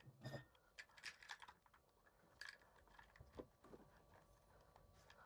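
Faint, scattered clicks and light knocks of small plastic and metal RC truck parts being handled.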